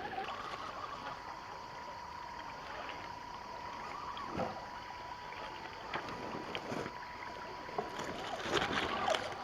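Scale RC rock crawler working over rough ground: a faint steady electric-motor whine for the first several seconds, with scattered knocks and clatter of the truck on rock, more of them near the end.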